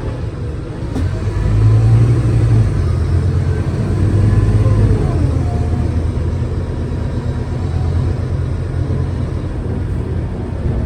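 Scania K320UA bus's diesel engine running under load with a deep, steady drone. It grows louder about a second and a half in, then eases back slightly after about five seconds.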